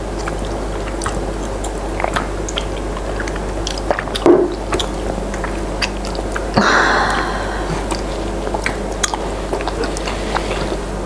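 Mouth sounds of people eating cheesy instant noodles and tteokbokki: chewing with many small wet clicks and smacks, over a steady background hiss, with a short noisy burst about seven seconds in.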